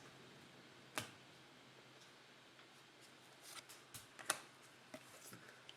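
Faint clicks and taps of trading cards being handled: a single tap about a second in, then a scattered cluster of small clicks, the loudest a little past the middle.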